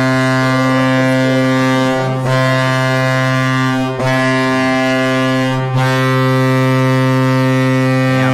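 Hockey goal horn sounding after a goal: one loud, low, steady horn tone that drops out briefly three times.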